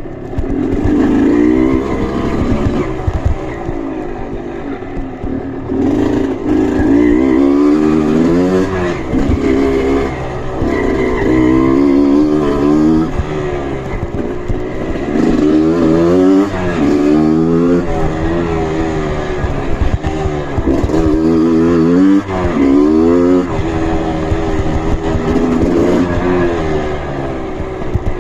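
Trail motorcycle engine revving hard in repeated throttle bursts, its pitch rising and falling every second or two.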